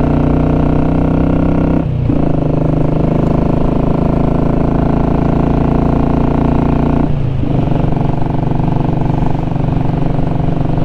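Royal Enfield Classic 500 single-cylinder engine running under way with its exhaust baffle removed, the note steady at a constant pitch. It cuts briefly twice, about two seconds in and again near seven seconds, as gears change, and after the second change it settles a little lower in pitch.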